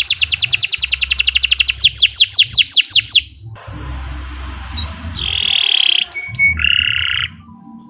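Domestic canary singing: a fast trill of repeated high notes, about ten a second, that breaks off about three seconds in, followed by two short buzzy rolls.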